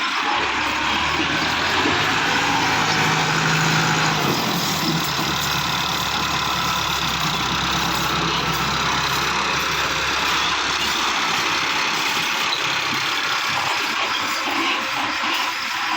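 Massey Ferguson tractor's diesel engine running steadily, with a low steady drone throughout.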